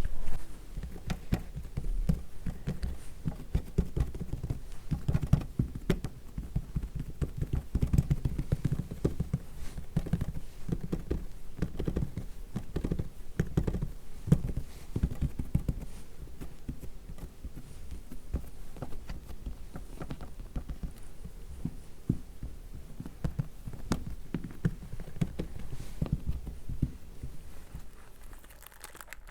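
Fingers patting and rubbing sunscreen onto a mannequin's face, miked close: a dense run of soft taps and pats that eases off near the end.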